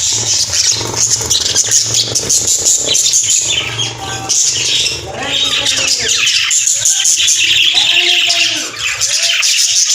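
Budgerigars and cockatiels chattering and squawking nonstop, with lower, swooping calls in the second half. A low steady hum runs under the first half.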